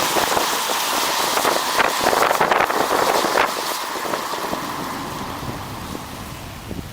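A car on the move: steady tyre and road hiss with dense crackle, fading over the last few seconds.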